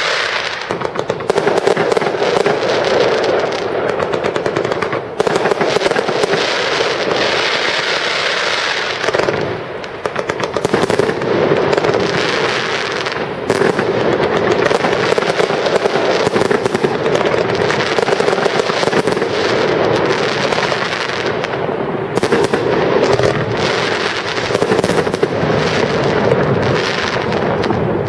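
Aerial fireworks display: shells bursting in quick, near-continuous succession, a dense barrage of bangs with a short lull about ten seconds in.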